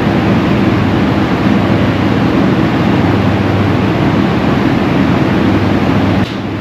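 A machine running steadily, with a low hum under a noisy rush; the level drops suddenly about six seconds in.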